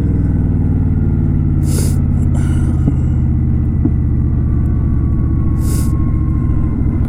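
Kawasaki Vulcan 900 Custom's V-twin engine running at a steady, unchanging speed while riding, with a few brief whooshes of air noise.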